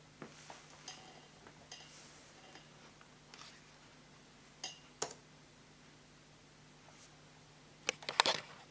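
Scattered light clicks and taps from handling the repaired laptop, a few with a short ringing tone, ending in a quick flurry of clicks.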